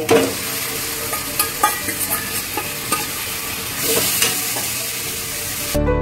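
Marinated chicken and fried onions sizzling in hot oil in a kadhai, with a metal spatula stirring and scraping against the pan. Soft piano music comes in near the end.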